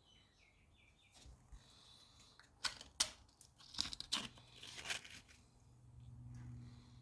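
Scrapes and sharp knocks of hand work on a cylinder head being removed from a Chrysler 440 marine engine, bunched between about two and a half and five seconds in, over a low steady hum.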